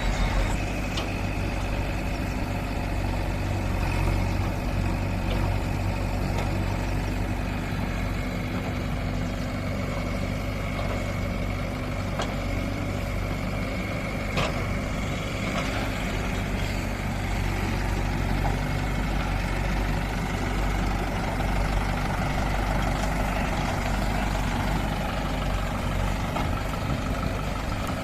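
Mahindra 575 tractor's diesel engine running steadily at an even pace.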